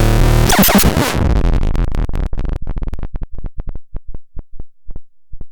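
Synthesizer playing a dense, noisy electronic texture that cuts off about a second in. It turns into a train of short low pulses that slow down steadily, spacing out more and more.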